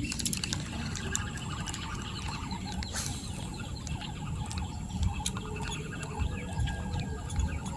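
Outdoor ambience: a low rumbling noise with many faint, short chirping calls over it and a sharp click about three seconds in.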